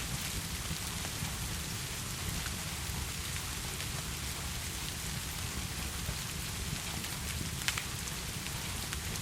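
Steady heavy rain, a dense even hiss over a low rumble, with a few sharp pops, the loudest about three-quarters of the way through.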